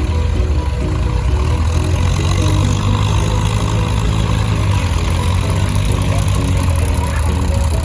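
Vintage tractor engines running steadily in a low rumble, with a tune playing over them.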